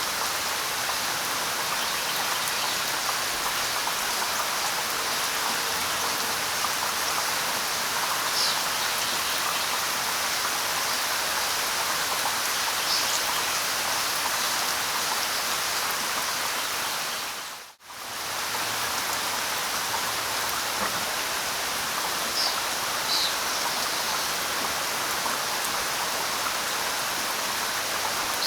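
Steady light rain falling on leaves and ground, an even hiss of drops. It drops out for a moment a little past halfway, then comes straight back.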